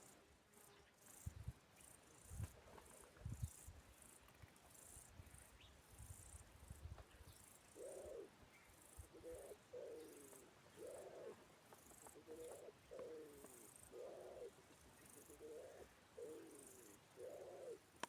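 Faint outdoor ambience of chirping insects. A few low thumps come in the first few seconds, then a run of short, low cooing or hooting animal calls repeats about once a second through the second half.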